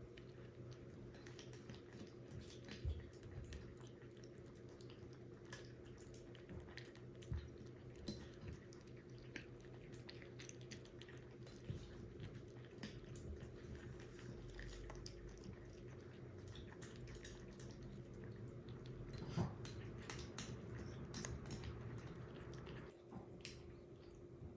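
Kitten eating: faint small wet clicks of chewing and mouthing food, scattered irregularly over a steady low hum.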